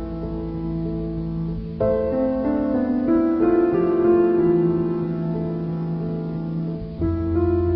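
Background piano music: slow, held chords, with new chords struck about two seconds in and again near the end.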